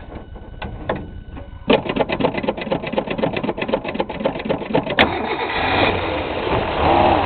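1962 Ford Falcon's straight-six engine on a cold start in freezing weather: the starter cranks with a fast, even chug for about three seconds, then the engine catches about five seconds in and runs, getting louder near the end before easing off.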